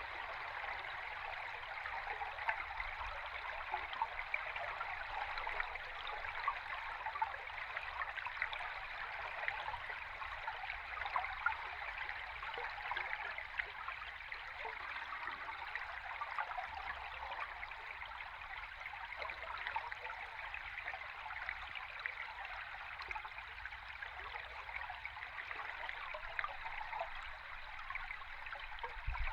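Running stream water heard underwater: a steady rushing fizz thick with fine crackles and bubbling, over a faint low rumble.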